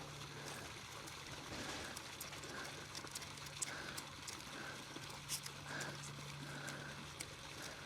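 Quiet barnyard: chickens clucking softly now and then, with light scattered clicks and rustles and a faint steady low hum.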